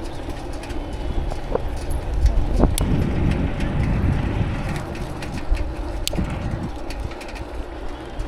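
Bicycle ride noise: a steady rumble of tyres on pavement and wind, with scattered clicks and rattles from the bike. The rumble swells from about two seconds in and eases off after about five.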